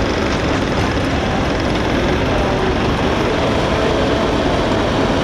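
Loud, steady tractor engine noise with a few faint tones shifting in pitch.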